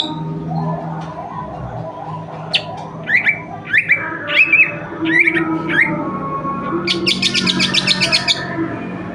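Greater green leafbird (cucak ijo) singing a mimicry-filled song with jinjing and petulak calls worked in: a soft warble, then a string of sharp downward-slurred whistles, then a fast buzzy trill near the end.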